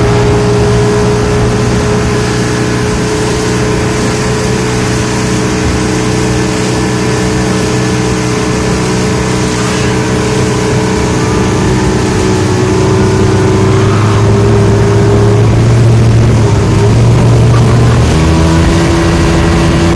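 Motorboat engine running steadily at a constant speed, its pitch shifting slightly near the end.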